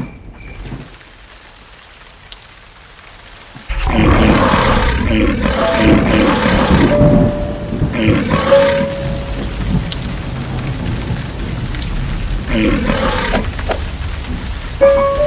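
A storm sound effect of rain and thunder starts suddenly about four seconds in and swells in loud waves, with long held musical notes over it in the middle and again near the end.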